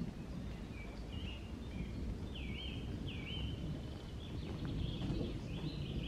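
A small songbird singing a run of short whistled notes, several sliding down in pitch, over a steady low outdoor rumble.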